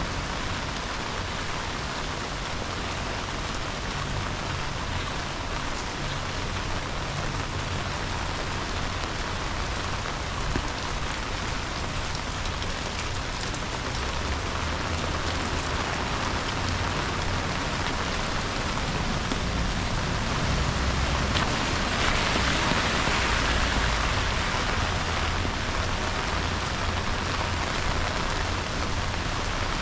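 Steady rain, picked up on a GoPro's microphone, with an uneven low rumble underneath. It gets a little louder just past the middle.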